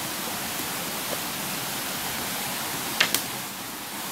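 Steady rush of spring water running, with a brief click about three seconds in.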